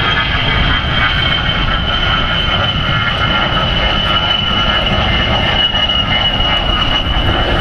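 A-10 Thunderbolt II's twin TF34 turbofan engines in a flying display, a loud low rumble carrying a high whine that drifts slightly lower in pitch.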